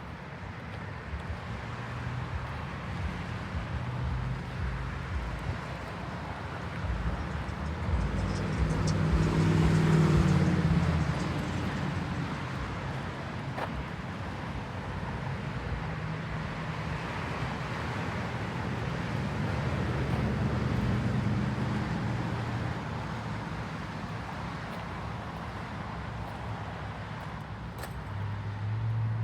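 Motor vehicle traffic: a steady low engine rumble, with one vehicle passing louder about ten seconds in.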